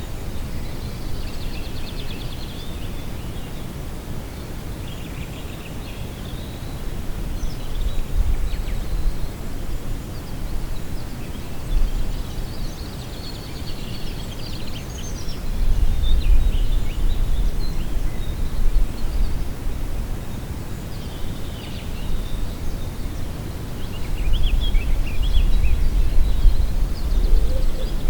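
Wind gusting and rumbling on the microphone, swelling in waves, with small birds chirping in short scattered calls.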